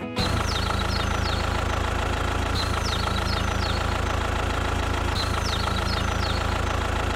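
Engine idling steadily, starting abruptly just after the music stops, with a set of high short chirps that repeats about every two and a half seconds.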